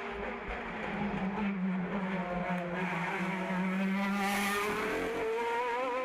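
Race car engine under hard acceleration on a hillclimb run, its note holding and then climbing steadily in pitch as it revs up through a gear.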